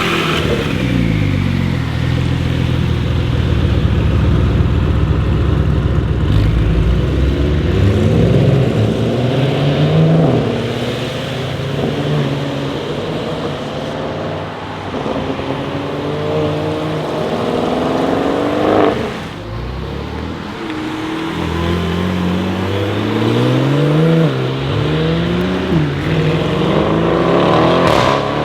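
Porsche 992 Carrera S twin-turbo flat-six accelerating through the gears, its pitch climbing in several runs and dropping at each shift, with a heavy low rumble in the first few seconds and a sharp crack about two-thirds of the way in.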